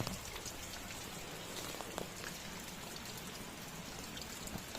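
Steady rain falling, with many scattered drops ticking and pattering on surfaces.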